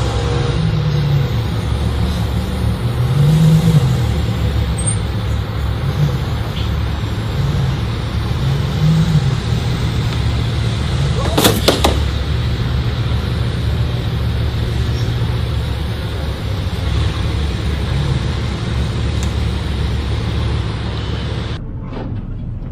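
Car engine running with its pitch rising and falling as it revs and eases off, over road noise. A brief sharp knock sounds about halfway through.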